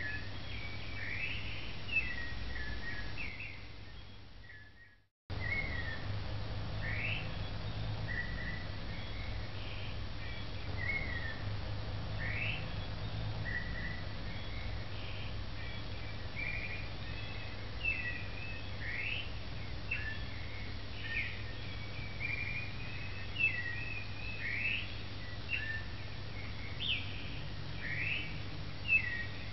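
Birdsong ambience: many short chirps and quick rising whistles from several birds over a steady low hum. It fades out about four seconds in, drops out briefly, and starts again.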